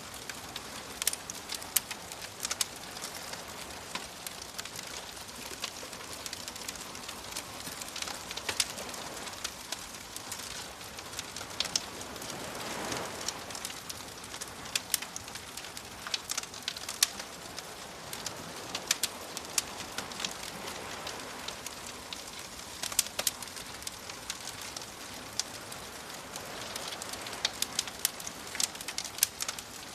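Wood fire crackling with frequent sharp pops over the steady wash of sea waves, which swell louder a few times.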